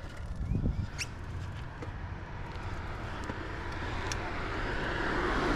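A car approaching on the road, its tyre and engine noise growing steadily louder through the second half, over a low wind rumble on the microphone and a few light clicks.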